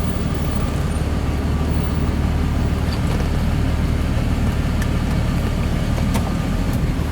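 A truck's engine and road noise heard from inside the cab as it drives, a steady low hum with a few faint ticks.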